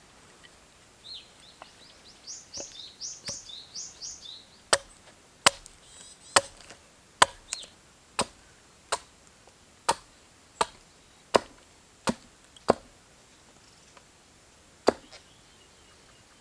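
About a dozen sharp chopping strikes on wood, roughly one every three-quarters of a second, the last coming after a short pause. Before the chopping starts, a small bird sings a quick run of high chirps.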